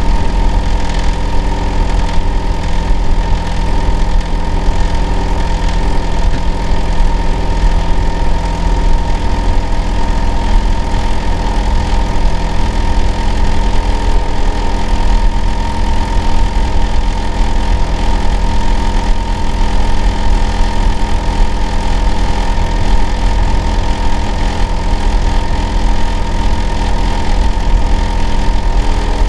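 Hitachi air-conditioner outdoor unit running with a loud, steady drone: a deep hum under several steady tones, the clearest a high whine. Some of the lower tones change pitch about nine seconds in. The uploader hears this as abnormal, excessive noise.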